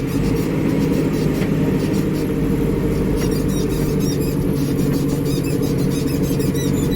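Backhoe loader's diesel engine droning steadily as the machine is driven along the road, with a stream of small high clicks and rattles from about three seconds in.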